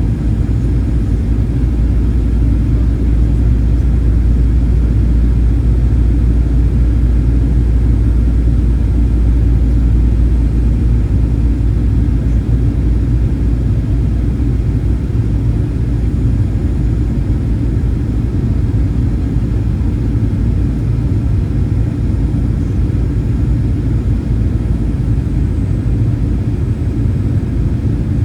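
Steady low rumble of a Boeing 737-800 in flight, heard from inside the cabin: the CFM56-7B engines and the airflow over the fuselage.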